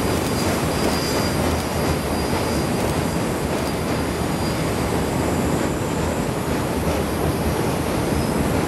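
Passenger coaches behind the K124 steam locomotive rolling across a steel truss bridge: a steady rumble of wheels on steel. A faint high-pitched tone comes and goes above it.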